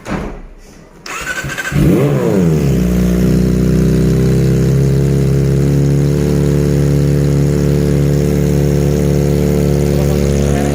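Kawasaki ZX-25RR's inline-four engine, breathing through an aftermarket racing exhaust, starting up about two seconds in with a short rev that falls away, then idling steadily.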